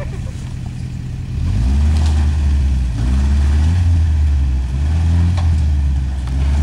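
Toyota 4x4 engine running low, then revving up about a second and a half in and holding higher under load as the truck works its way up the rocks.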